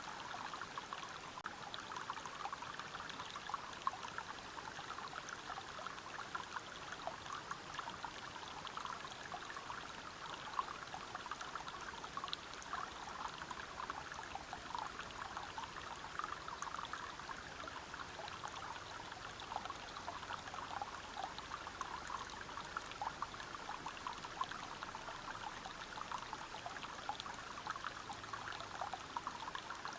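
Waterfall and river water flowing over rocks: a steady, even rush dotted with many small splashes and droplets.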